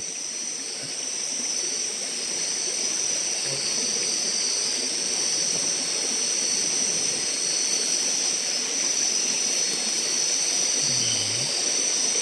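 Steady high-pitched drone of forest insects over an even hiss.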